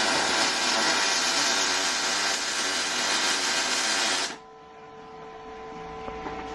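A power tool running steadily and loudly for about four seconds, then stopping abruptly, leaving a quieter steady hum.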